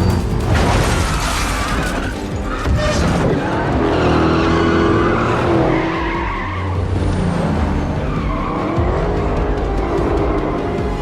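Film car-chase sound mix: car engines running hard and tyres squealing, over a music score.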